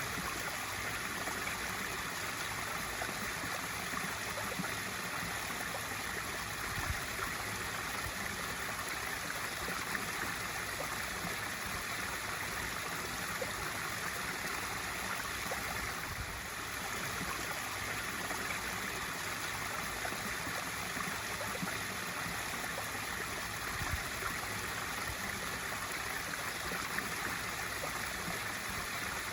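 Pool waterfall feature running: a steady stream of water pouring and splashing into the pool.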